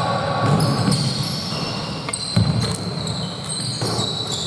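Basketball game play on an indoor court: a ball bouncing with a hard thump about two and a half seconds in, amid short high squeaks typical of sneakers on the floor, with the echo of a large hall.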